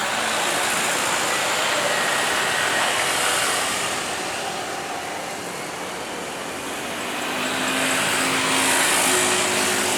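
Engine and rushing noise of passing vehicles, swelling twice, about five seconds apart.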